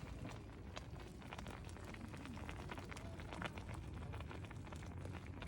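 A lidded pot of fish stew simmering, with faint irregular crackling and popping over a steady low rumble.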